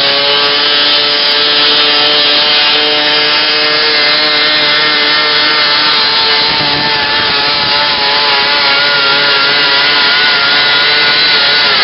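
Modified garden pulling tractor's engine running at full throttle under load. The note is loud, steady and rasping, and its pitch dips slightly near the end.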